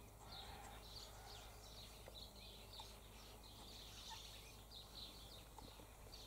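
Faint outdoor background of distant birds chirping: many short, high calls in a quick irregular run, over a low steady hum.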